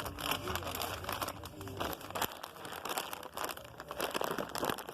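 Rapid rustling and crinkling handling noise, with a low hum underneath that cuts off a little after halfway.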